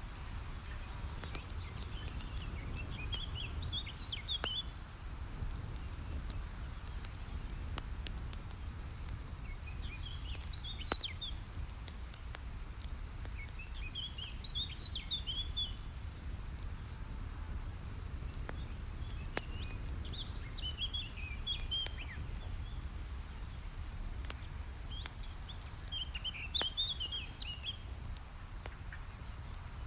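Campfire crackling with sparse sharp pops over a steady low rumble, while a songbird sings a short, high, chirpy phrase about five times, roughly every five seconds.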